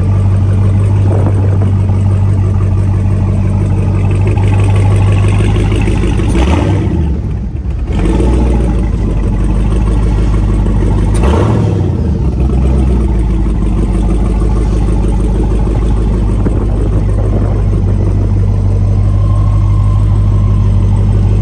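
A 2021 Dodge Charger SRT Hellcat Redeye's supercharged 6.2-litre HEMI V8 idling, blipped twice, about six seconds in and again about eleven seconds in.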